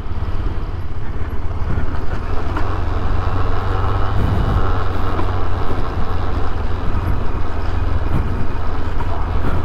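KTM 390 Adventure's single-cylinder engine running steadily under load as the motorcycle climbs a steep, winding road.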